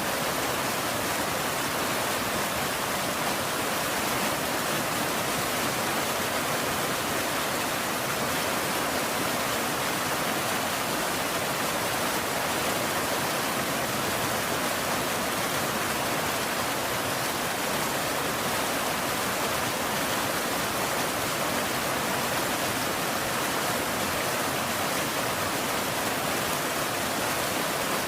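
Steady rain: an even hiss that does not change, with no single drops or thunder standing out.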